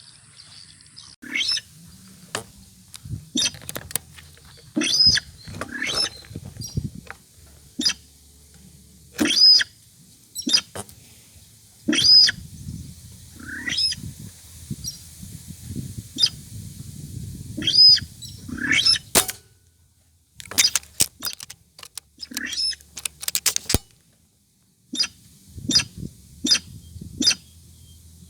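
Loud, sharp rail calls, the call of the sintar used to lure the bird, repeated in short bursts every second or two.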